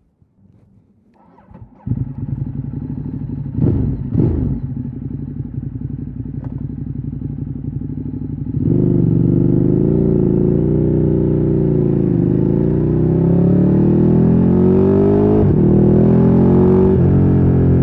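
Ducati Streetfighter 848's L-twin engine with a Termignoni exhaust being started. The starter turns it briefly before it catches, then it idles with two quick throttle blips. About nine seconds in it gets much louder and pulls away, the revs rising and falling with a few abrupt drops like gear changes.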